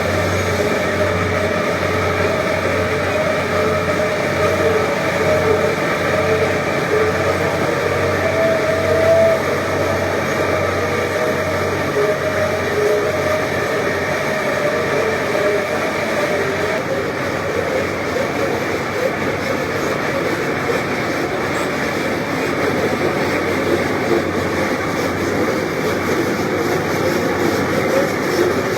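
Bucket wheel excavator running: a loud, steady mechanical drone with a wavering whine that fades out about halfway through.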